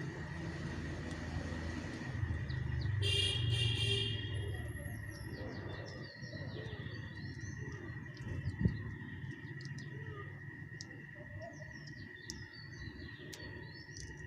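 Small birds chirping and twittering in short repeated calls, with one louder harsh call about three seconds in. Under them a low rumble swells and fades, and a steady high-pitched tone runs throughout.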